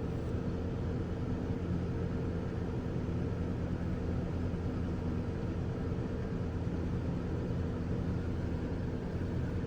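2001 Ford Ranger engine running steadily with a new ignition coil pack fitted; the scan tool shows no current misfires.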